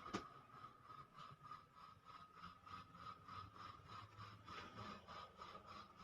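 Near silence: faint background with a soft click at the start and faint ticks repeating a few times a second.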